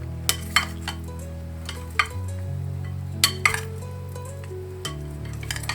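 Utensils clinking against a bowl as a salad is tossed and mixed: several sharp, irregular clinks, over steady background music.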